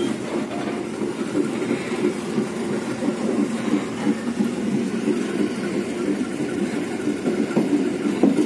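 Running noise of a moving passenger train heard from inside a coach: a steady rumble of the wheels on the rails with occasional small knocks.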